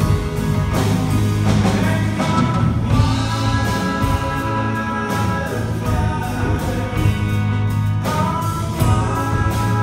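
Live band music with long, steady held notes and some singing.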